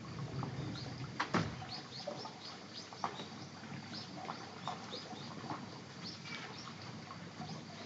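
Small birds chirping in quick, short calls throughout, over a cat eating wet food from a bowl, with a few sharp clicks, the loudest a little over a second in.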